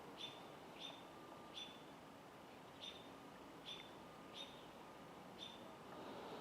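A bird chirping faintly and repeatedly: a short, high chip given about once a second, eight or so times, each alike.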